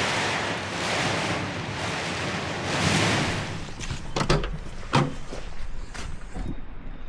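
Storm wind gusting against a small shelter, surging twice in the first few seconds and then easing off. A few short knocks follow in the calmer second half.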